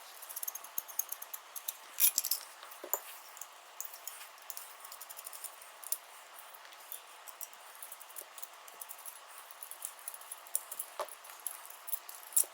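Scattered small metallic clicks, taps and rattles of hand tools and small parts being handled, with the loudest clack about two seconds in.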